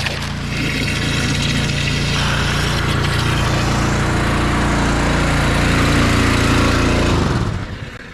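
Small engine running steadily, then shutting off and winding down near the end.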